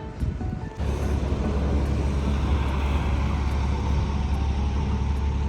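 Steady low rumble of road vehicle noise, as heard riding in a moving car. It cuts in abruptly about a second in.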